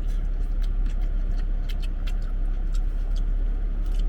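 Chewing and mouth sounds of someone eating birria tacos: many short, irregular wet clicks and smacks. They sit over a steady low rumble.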